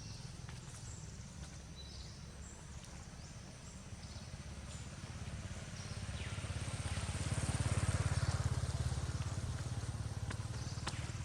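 A motor vehicle passing, its engine hum growing louder about six to nine seconds in and then easing off, with a few short bird chirps.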